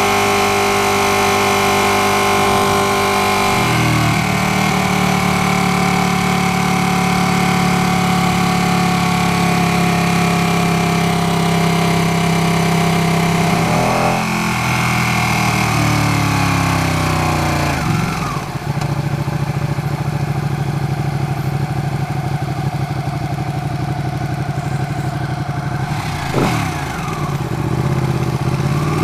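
2016 Ducati 959 Panigale's L-twin engine and exhaust heard from the rider's seat while riding. It holds a steady note, shifts pitch about four seconds in, then falls away in steps as the bike slows around the middle, runs steady again at a lower note, and briefly drops and picks up near the end.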